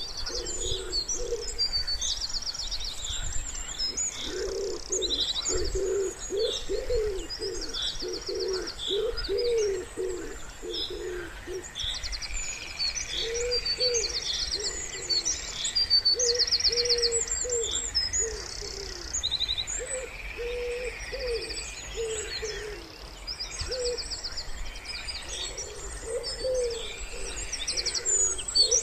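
Wood pigeon cooing in repeated low phrases, densest in the first third and then in shorter phrases, over a busy chorus of high songbird chirps and rapid trills.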